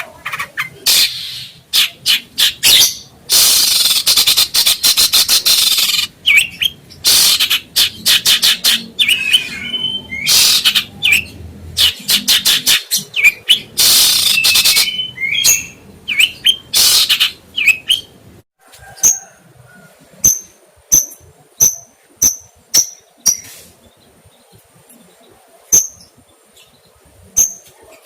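Songbird calling: a dense run of loud, harsh chattering calls. About two-thirds of the way through it gives way to short, sharp high chirps repeated about once or twice a second.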